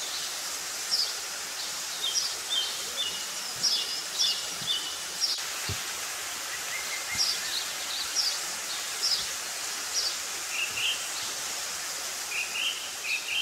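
Songbirds calling in short, high chirps, repeated often and in small clusters, over a steady outdoor hiss.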